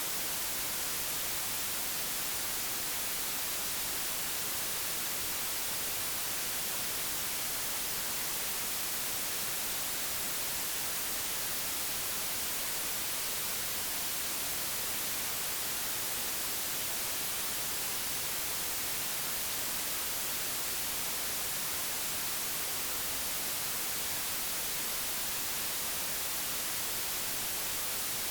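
Steady, unchanging digitally generated white noise: an even hiss across all pitches with no events.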